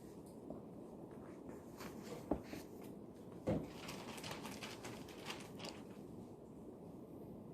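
Desk sounds of someone studying over a steady library room hum: light scratching and rustling of paper and pencil, with two sharp knocks on the desk about a second apart near the middle.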